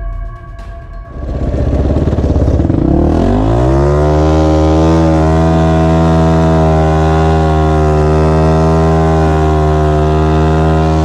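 Motorcycle engine revving up over about three seconds, then held at a steady high pitch with small wavers.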